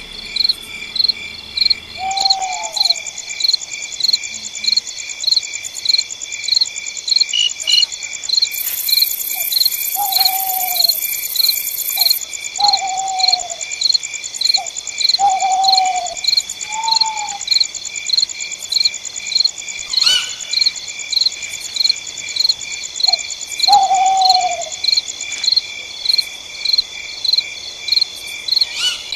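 Night insect chorus: crickets chirping in a steady pulse about twice a second over a continuous high trill. A short, falling call from another night animal breaks in about six times.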